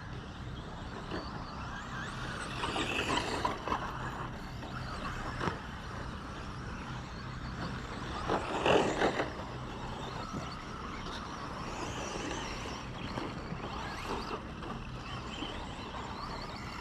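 RC short course trucks racing, their motors whining up and down in pitch as they speed up and slow down. A louder stretch comes about 9 s in, as trucks come close.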